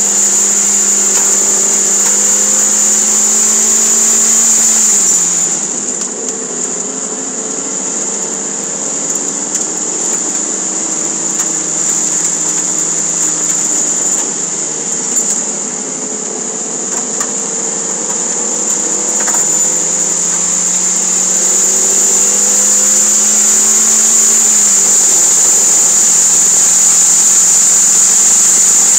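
Toyota MR2 Spyder's mid-mounted four-cylinder engine heard from inside the cabin on track. The engine note drops about five seconds in as the car slows for a corner, then climbs steadily under acceleration and falls again near the end with an upshift. A steady high-pitched hiss runs under it.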